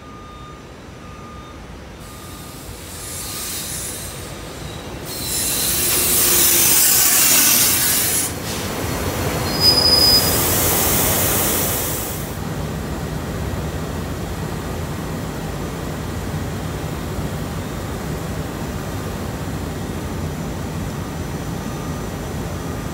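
A SEPTA electric commuter train pulls into the station and runs past, its wheels and brakes squealing, loudest about halfway through with a sharp high squeal near the peak. It then stands at the platform with a steady low hum.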